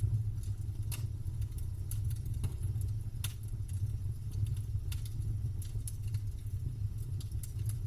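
Campfire crackling: irregular sharp snaps and pops of burning wood over a steady low rumble.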